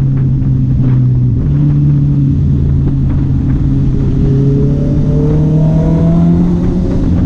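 Honda CB650R's inline-four engine running at steady revs, loud throughout. Its pitch steps slightly about a second and a half in and rises toward the end, with a fainter rising whine in the middle.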